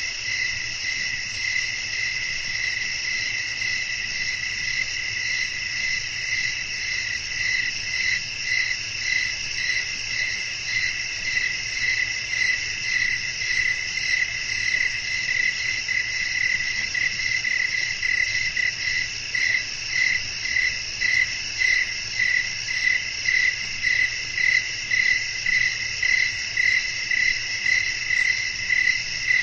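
Crickets chirping at night in a steady high-pitched chorus. In the second half a regular pulsing chirp stands out, about one and a half pulses a second.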